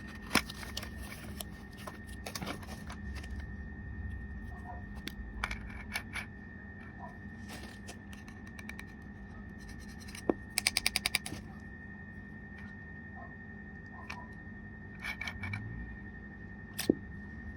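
Handling and unpacking small objects: scraping and rustling with scattered sharp clicks, and a quick run of about eight clicks a little past the middle. A faint steady high-pitched tone runs underneath.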